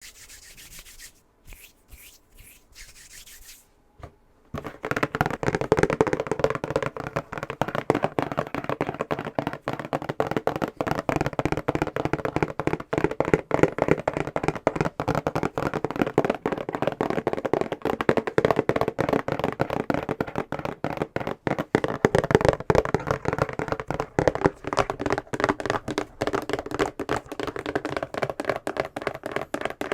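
Fingernails tapping and scratching fast on a box, a dense run of quick sharp clicks with a hollow ring. It begins about four and a half seconds in, after a quieter, broken hiss.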